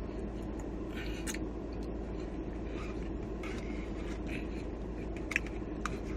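A person chewing tortilla-chip nachos, with a few small crunches and mouth clicks over a steady low rumble.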